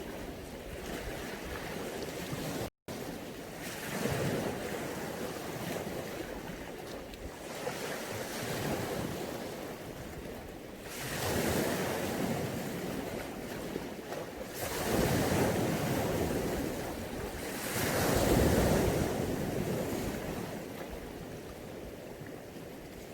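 Mediterranean sea waves washing ashore, rising into a louder surge every few seconds, four times, between quieter stretches of hiss.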